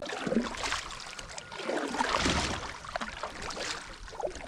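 Water splashing and lapping around a kayak on a river, with small irregular knocks and splashes.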